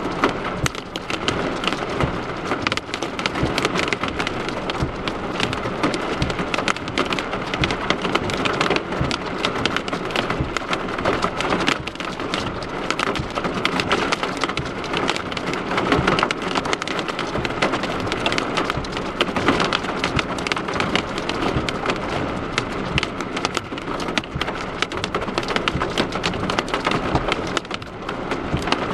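Heavy storm downpour striking a hard surface: a steady, dense hiss packed with rapid sharp ticks of drops hitting.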